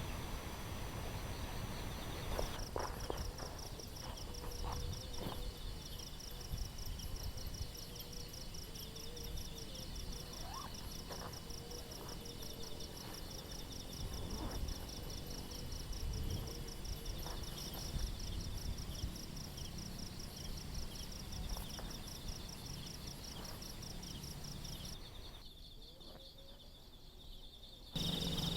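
Insects trilling in a rapid, even pulse, with a second fainter trill beneath it, over a low rumble and scattered light knocks. The trilling falls away near the end.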